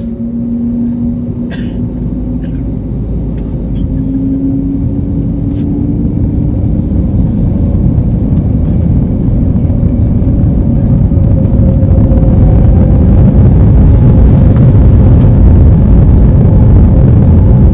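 Airbus A320neo jet engines spooling up to takeoff thrust, heard from inside the cabin, with a deep rumble and a rising engine tone that build steadily louder. A few faint clicks sound in the first few seconds.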